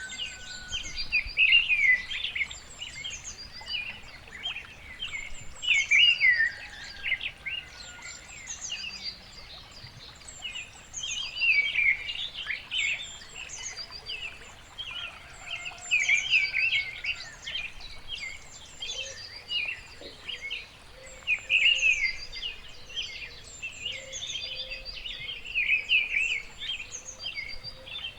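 Several songbirds singing together: dense, overlapping high chirps and trills in phrases of a few seconds, with quieter gaps between them.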